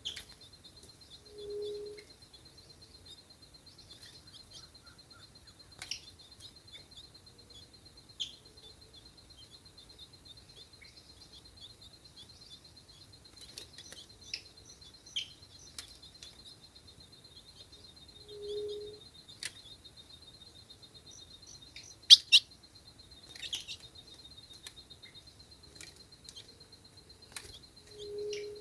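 Ultramarine grosbeak (azulão) calling in short, scattered chirps over a steady, high, pulsing drone. A low, short hoot sounds three times, and a sharp click comes about two-thirds of the way through.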